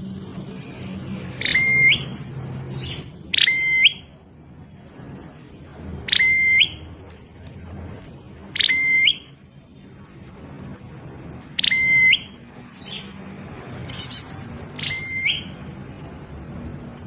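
Prenjak klawu (a prinia) repeating a short call six times, every two to three seconds. Each call drops steeply onto a brief flat whistled note, with faint high chirps in between. The title calls it a strange-sounding call for this bird.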